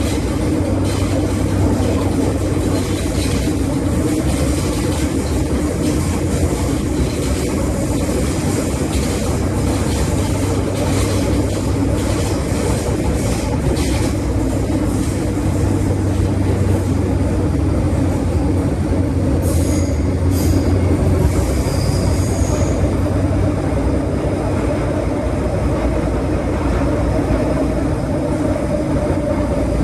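Inside an MTR M-Train metro car running between stations: steady traction and wheel-on-rail rumble with a low hum. A series of short knocks runs through the first half, and a brief high-pitched wheel squeal comes about twenty seconds in.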